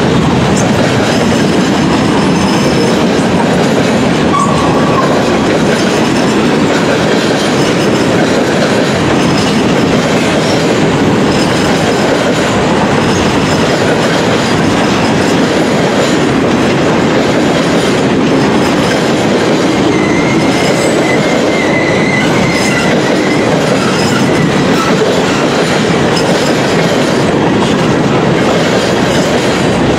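Freight cars of a slow-moving CN mixed freight train rolling past: tank cars, covered hoppers and boxcars, their wheels on the rails making a loud, steady noise. Brief high wheel squeals come about four seconds in and again around twenty seconds in.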